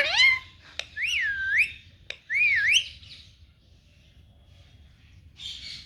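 Indian ringneck parrot whistling twice, each whistle dipping and then rising in pitch, a little over a second apart.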